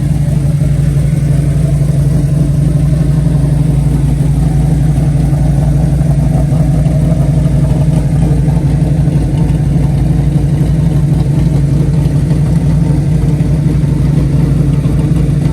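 A car engine idling, loud and steady.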